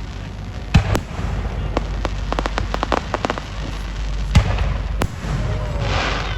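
Fireworks going off: sharp bangs of bursting shells, the loudest about a second in and again past four seconds, with rapid crackling in between and a rushing hiss near the end.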